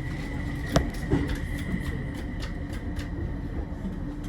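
Train carriage interior noise: a steady low rumble with a thin steady high whine. A sharp click about a second in is the loudest moment, and a smaller knock follows just after.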